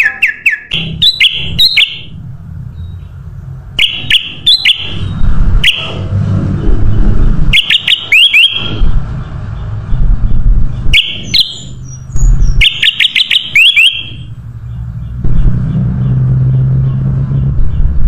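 Kutilang emas bulbul singing: short bursts of quick, bright whistled chirps, repeated every few seconds. A loud low rumble runs underneath.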